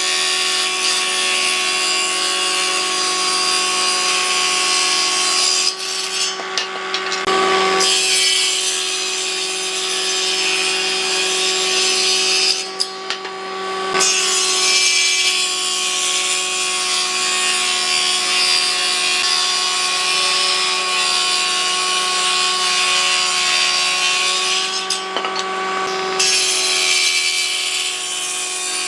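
A power tool working hardwood: a steady motor hum under loud cutting noise. The cutting noise lets up briefly three times, about six, thirteen and twenty-five seconds in, while the motor keeps running.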